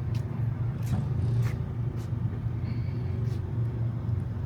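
Steady low engine rumble, like a vehicle idling close by, with a few faint light clicks over it.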